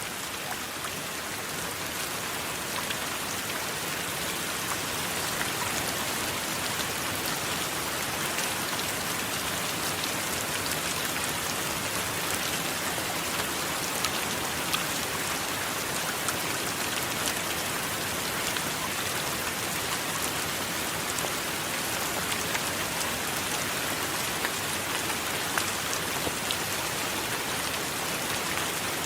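Steady heavy rain, an even hiss with many small sharp drop hits scattered through it.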